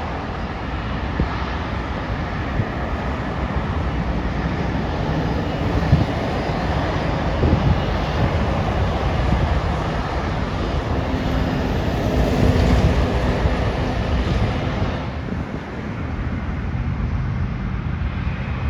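Jet airliner engines roaring as the aircraft passes, swelling to a peak about two-thirds of the way in and then dropping off sharply, over a steady low rumble.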